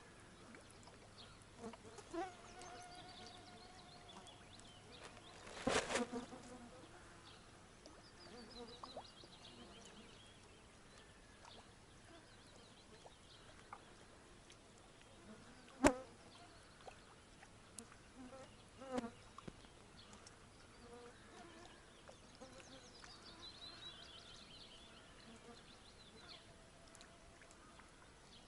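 Faint buzzing of flying insects, with a short noisy burst about six seconds in and a sharp knock about sixteen seconds in.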